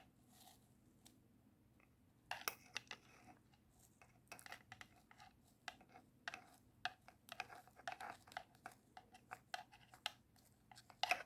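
Soft scattered clicks and rustles of small hand work: moss and plants being handled and pressed into a small plastic terrarium container. The first two seconds are near silent.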